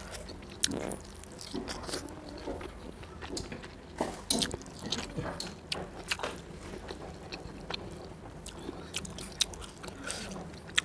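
A person chewing food by mouth close to the microphone: wet smacks and small clicks come irregularly, the strongest about four seconds in. The mouthful is rice and fried catfish eaten by hand.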